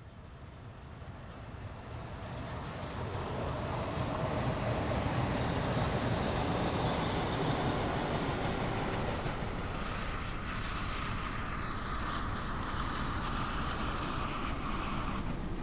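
A train hauled by SBB Ce 6/8 'Crocodile' electric locomotives runs past, its wheels rumbling on the rails. The rumble builds over the first few seconds and stays loud as the coaches go by. In the later part a steady high whine joins in, and it cuts off abruptly just before the end.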